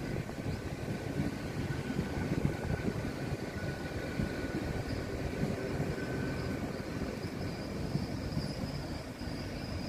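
Hitachi Class 800 bi-mode intercity train running slowly along the platform as it arrives, a steady rumble with a thin, steady high whine over it.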